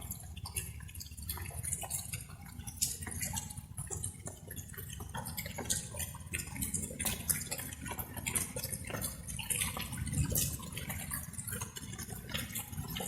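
Light rain: drops falling and dripping irregularly close to the microphone, many small sharp ticks over a steady low rumble.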